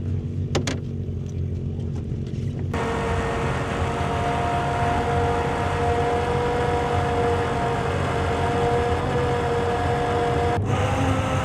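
Vehicle engine running steadily as a low hum. About three seconds in it changes abruptly to a louder, noisier engine drone with a steady whine in it, which stops abruptly near the end.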